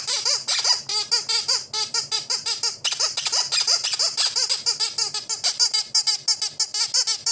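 A rapid, continuous run of short high-pitched squeaks, several a second, each rising and falling in pitch.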